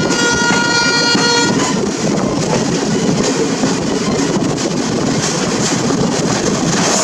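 A train horn sounds one steady chord for about the first second and a half, then stops. After that, the steady rumble and rush of a train running at speed, heard from the open door of a moving coach.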